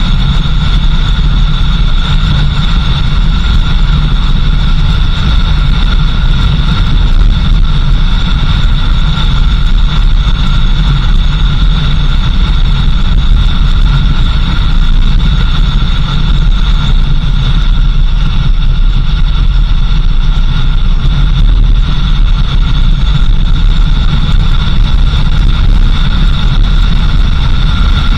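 A vehicle's engine and road noise while driving: a steady low rumble with a constant high whine over it.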